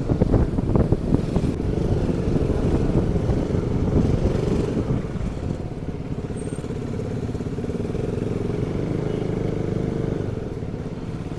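Motorcycle engine running at low speed while riding slowly through traffic, a steady low rumble that eases a little about five seconds in.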